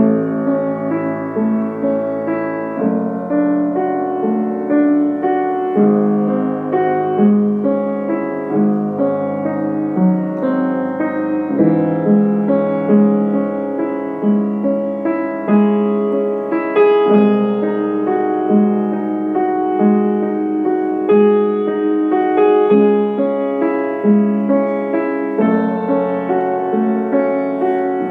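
Solo piano playing a slow, gentle piece, with a note or chord struck about once a second.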